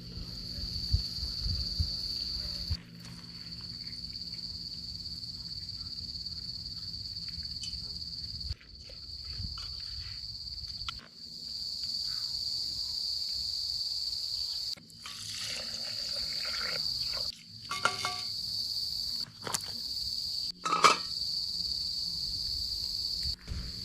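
Insects in the bush keep up a steady high-pitched shrill, broken off briefly several times. A few light clicks and knocks and a couple of short pitched calls come through over it, near the middle and toward the end.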